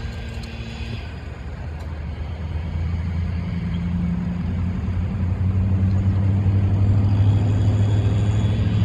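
Car engine running with a low, steady hum that grows gradually louder over the first several seconds.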